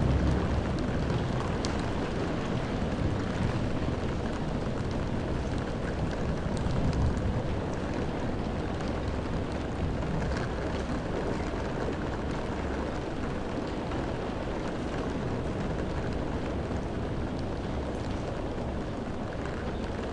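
Heavy rain against window glass heard from indoors: a steady dense hiss with fine drop ticks, swelling in the low end near the start and again about seven seconds in.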